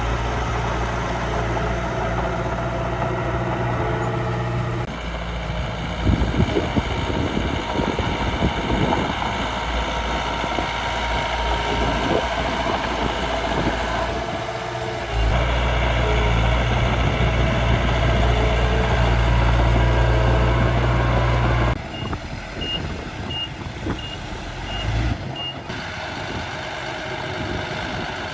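Miniature dump truck and bulldozer working, a steady engine-like hum that shifts in pitch and level several times, with a stretch of rough scraping noise in the middle. About two-thirds of the way through comes a run of about six short, high reversing beeps.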